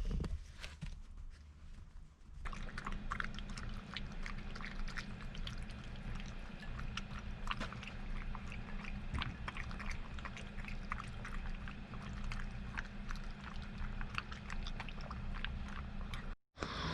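A Shiba Inu's wet mouth noises: rapid, irregular clicking like lapping or chewing, starting about two and a half seconds in, over a steady low hum.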